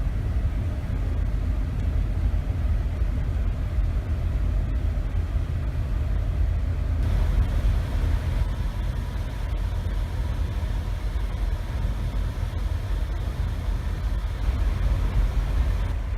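Steady low rumble aboard a cruise ship under way, with a light hiss over it.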